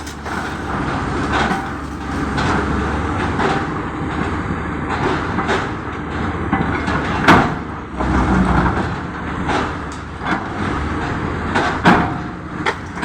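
JCB backhoe loader's diesel engine running steadily while digging, with several sharp knocks, the loudest about seven seconds in.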